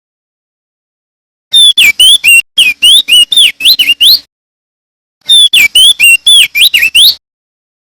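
Male opior jambul (crested darkeye) singing: two loud phrases of rapid, clear whistled notes. Each note sweeps sharply up and down, and there is a short pause between the phrases.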